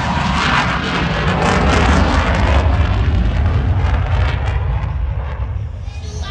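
Aircraft engine noise overhead, a loud, dense roar with a deep rumble that dies away over the last second or so as the plane moves off.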